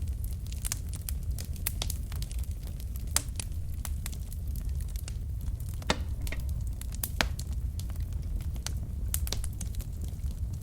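Wood fire burning in a fireplace: a steady low rumble of flames with irregular sharp crackles and pops from the burning logs, the loudest pops about three, six and seven seconds in.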